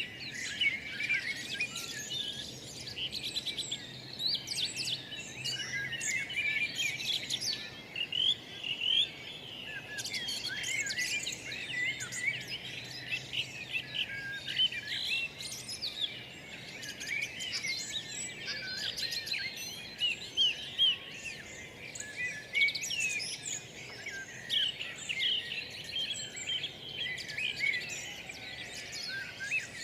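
Many songbirds chirping and singing at once: a dense chorus of short, quick chirps and twittering warbles, with no single bird standing out.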